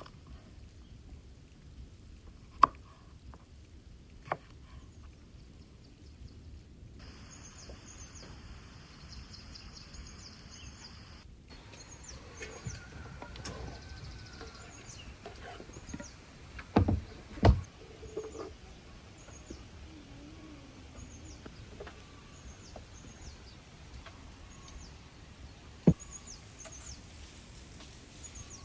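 Small birds chirping in short repeated calls over a low outdoor background, with a few sharp knocks, two close together about two-thirds of the way through.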